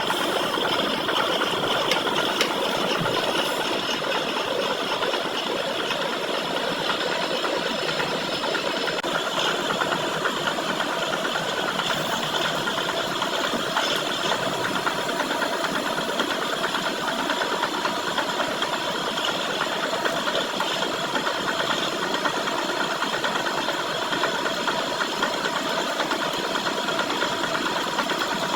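Metalworking lathe running steadily, with several constant tones from its motor and gearing over a dense mechanical rattle.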